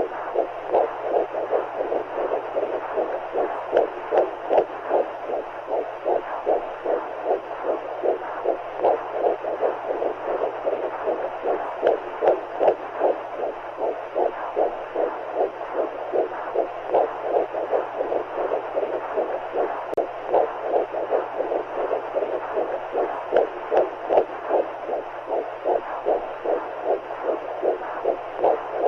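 Womb sound for soothing a baby: a fast heartbeat pulsing steadily, about two beats a second, over a constant whooshing rush like fluid heard from inside the body.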